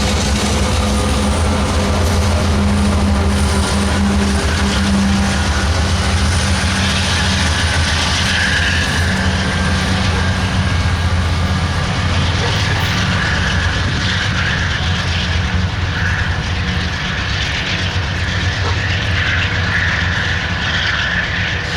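Freight train passing close by: steady, loud drone of diesel locomotive engines together with the noise of wheels rolling on the rails.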